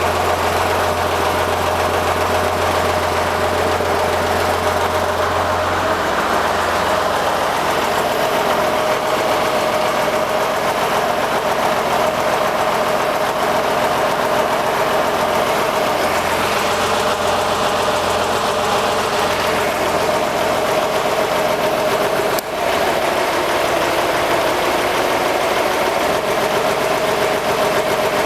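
Air-cooled Porsche flat-six test engine running steadily on a freshly rebuilt set of Weber 40 IDAP carburetors, during cylinder balancing and base tuning.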